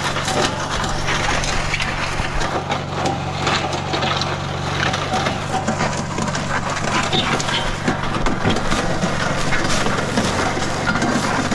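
Portable concrete mixer (Mud Mixer) running: a steady motor hum under continuous rattling and crunching as the concrete mix and gravel tumble inside it.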